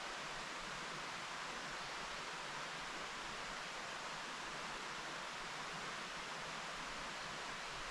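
Mountain stream flowing over rocks, a steady, even rush of water with no breaks.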